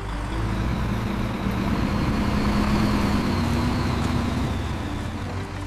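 A motor vehicle's engine running, a steady rumble that swells to its loudest around the middle and eases off toward the end.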